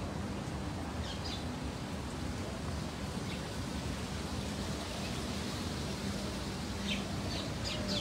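Outdoor ambience: a steady low hum and background noise, with a few short bird chirps about a second in, around three seconds in, and several more near the end.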